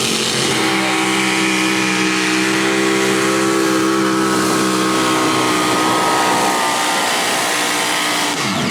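Mini rod tractor puller's engine running hard at high, steady revs under load, its pitch dropping sharply near the end as it comes off the throttle.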